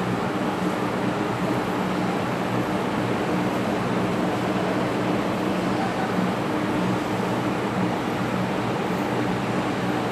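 A steady mechanical drone: an even noise with a constant low hum that does not change in pitch or level.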